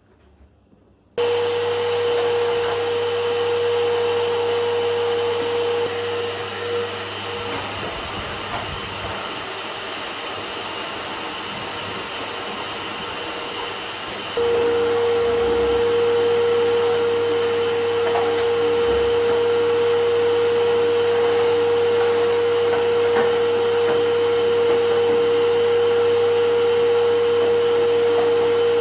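Vacuum cleaner motor running steadily with a constant hum. It starts abruptly about a second in, goes quieter for several seconds midway, then comes back louder.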